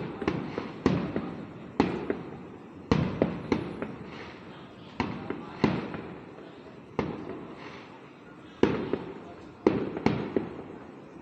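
Fireworks going off: a series of sharp bangs, irregularly spaced from a fraction of a second to over a second apart, each trailing off in a fading rumble.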